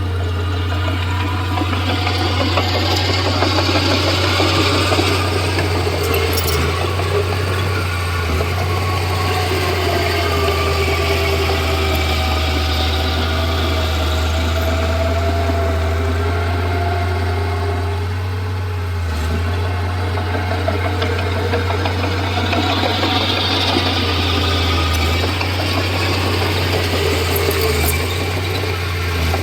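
Komatsu D31P bulldozer's diesel engine running steadily, with a constant low hum and pitch that shifts slightly as it works.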